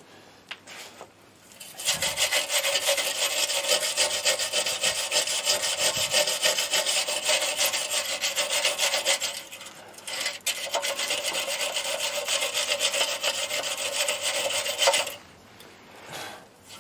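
Hand-held wire brush scrubbing back and forth over metal to clean off rust, in two long spells of fast scraping strokes with a brief pause between them.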